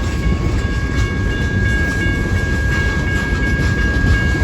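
Long freight train rolling past close by: a steady low rumble of wheels on rail. A grade-crossing bell rings steadily over it as a high, pulsing tone.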